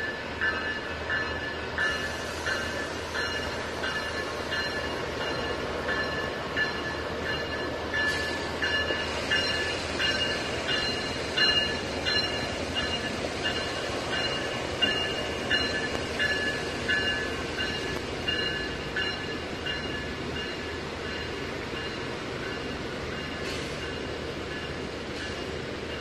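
Brightline passenger train rolling through a road grade crossing, a steady rumble of the passing cars. Over it the crossing's warning bell rings on and on at about two strikes a second.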